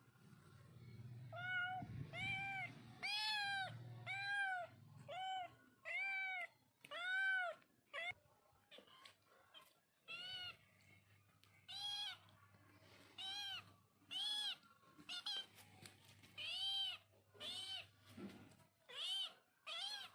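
Kitten meowing over and over: short high-pitched meows that rise and fall in pitch, about one a second, with a brief pause partway through.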